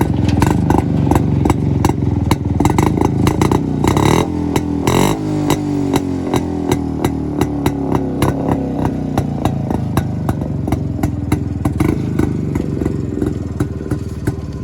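Jawa two-stroke motorcycle engine running, revved up about four to five seconds in, then dropping back to a steady idle with a quick, regular popping.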